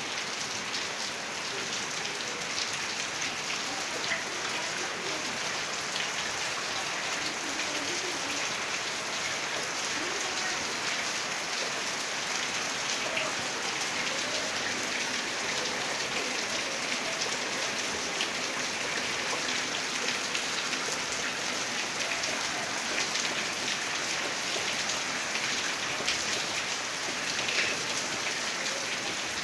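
Steady heavy rain falling, a constant hiss of many fine drop patters.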